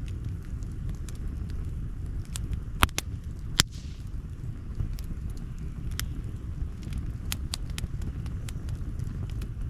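Campfire crackling: irregular sharp pops and snaps, the loudest two about three seconds in, over a steady low rumble.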